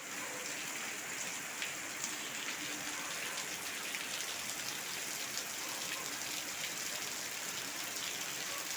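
Steady rain falling onto the front porch floor of a house: an even hiss with many single drops ticking sharply against the hard surface.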